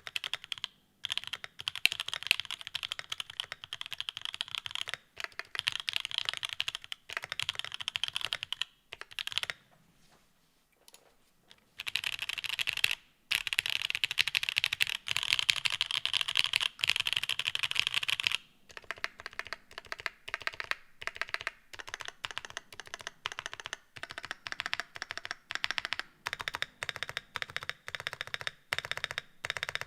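Continuous typing on a mechanical keyboard with EQUALZ Banana Split linear switches and Cherry-profile keycaps: fast runs of clacky keystrokes, with a pause of about two seconds near the middle before the typing resumes.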